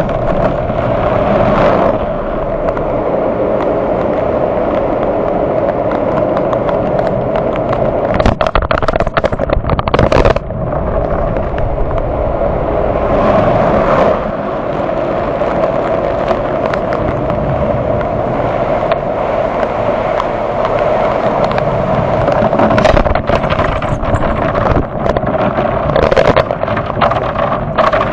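Automatic conveyor car wash working over the car, heard from inside the cabin: water spraying and wash elements slapping and scrubbing against the body in a loud, dense clatter over a steady drone.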